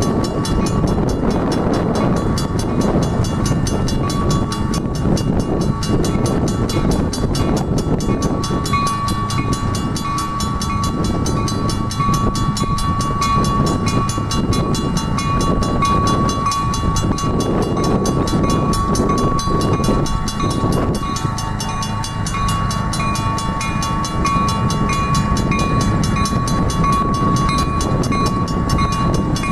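EMD SW1200 diesel switcher locomotive, with its 12-cylinder engine, running as it moves a passenger train. A steady high-pitched tone comes in about eight seconds in and grows stronger toward the end.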